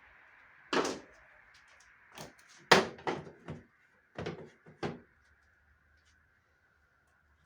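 A series of about seven sharp knocks and clunks over some four seconds, the loudest about three seconds in, over a faint steady hum.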